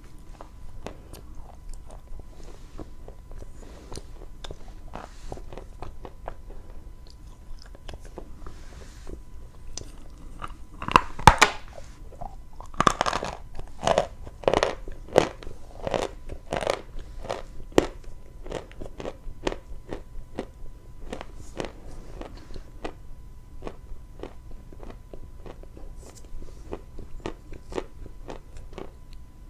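Close-up biting and chewing of dry edible chalk: brittle crunches and crackles, loudest and densest with the big bites between about 11 and 18 seconds in, then softer chewing.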